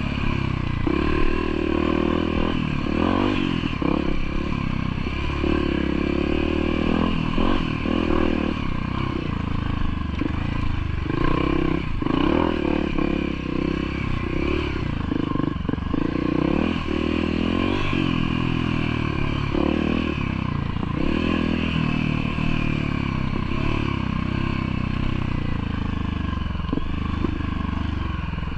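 Motorcycle engine running continuously under varying throttle, with knocks and rattles through the ride.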